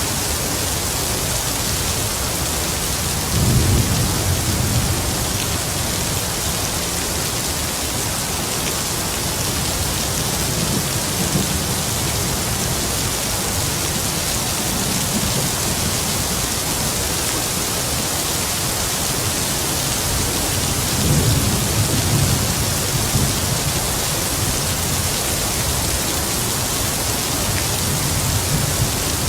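Heavy rain falling steadily, with distant thunder rumbling low twice, about three and a half seconds in and again about twenty-one seconds in.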